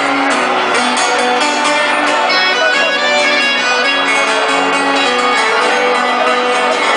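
Live sertanejo band playing an instrumental passage: held instrument notes over a steady beat, with no singing.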